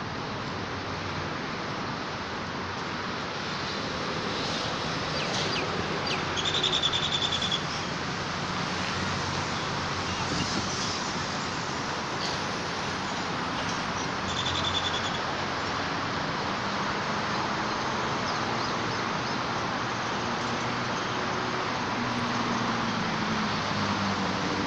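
Steady outdoor background noise with scattered high bird chirps, including two short high calls about seven and fifteen seconds in.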